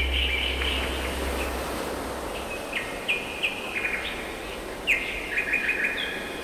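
Small birds chirping in quick, short calls, coming in three bursts with brief gaps between them. A low, sustained music drone fades out in the first second or two.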